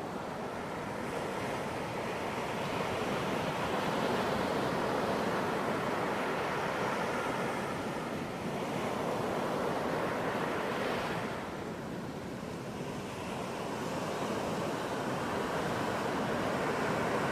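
Ocean surf breaking and washing onto a beach: a continuous rush that swells and ebbs, with a wave surging up about ten to eleven seconds in before easing off.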